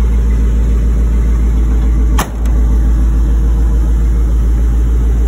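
Ford 4.6-litre fuel-injected V8, swapped in from a 1999 Crown Victoria, idling steadily through a Flowmaster exhaust. A single sharp knock comes a little over two seconds in.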